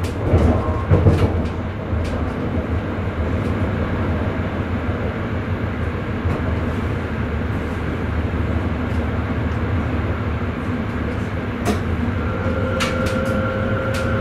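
Electric Sprinter commuter train running on the line, heard from the driver's cab: a steady low rumble with a few sharp clacks at the start and again near the end. A steady whine sets in near the end.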